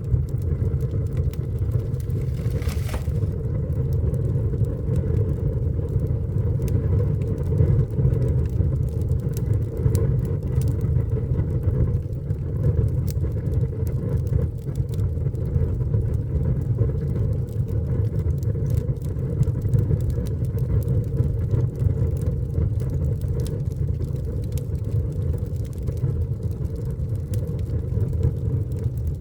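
Fire burning in a fireplace: a steady low rumble with many scattered sharp crackles and pops.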